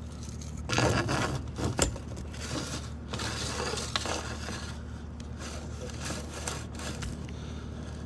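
Irregular scraping and rubbing as a sewer inspection camera's push cable is fed down a vent pipe, loudest about a second in, over a steady low hum.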